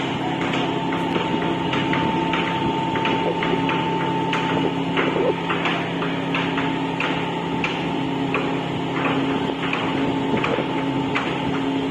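A river dredger's engine running steadily with a fixed hum, over which come frequent irregular sharp knocks, about two a second.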